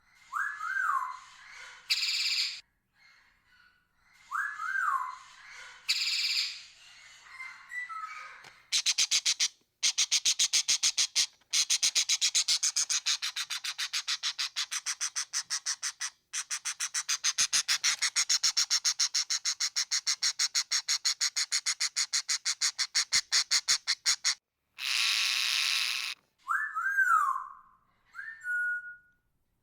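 Parrot calls: short whistled notes that glide up and back down, each followed by a harsh screech, then a long run of rapid, even chattering in the middle that stops and restarts once, and more whistles and a screech near the end.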